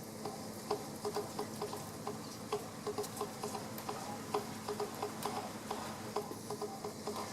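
Rain falling, irregular small drips and taps pattering several times a second over a faint steady low hum.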